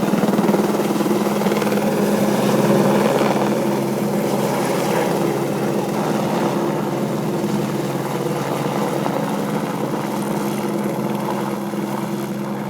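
Helicopter carrying the slung Daisy Bell avalanche-control cannon: steady rotor and turbine engine sound, slowly fading toward the end.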